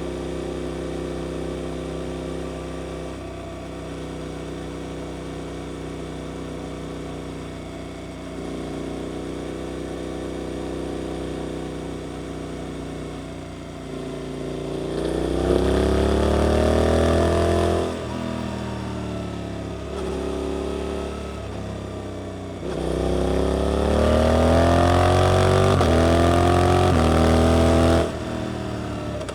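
Suzuki GSX-8S 776 cc parallel-twin engine with an Arrow aftermarket exhaust, running steadily at low revs, then pulling hard twice with a rising pitch. Each pull is louder and cuts off suddenly as the throttle closes or the next gear goes in.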